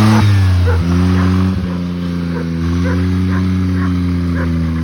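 Buggy engine idling, its revs settling a little lower just under a second in. Short, high, yip-like sounds come over it at uneven intervals, roughly twice a second.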